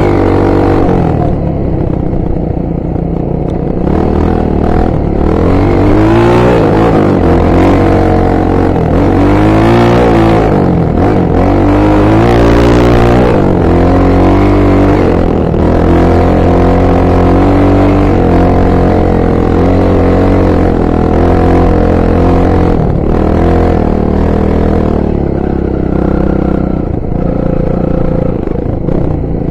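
Honda XR 250 Tornado's single-cylinder four-stroke engine being ridden, revving up and down repeatedly through the first half, then running at a steadier speed.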